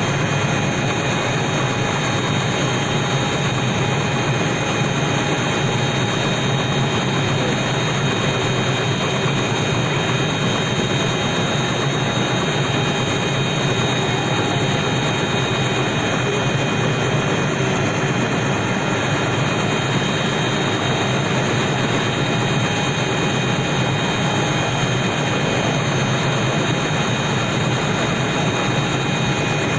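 Helicopter running steadily: a constant engine and rotor noise with a steady high whine from the turbine.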